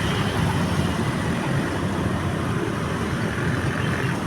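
Steady road-traffic rumble with no single vehicle or event standing out.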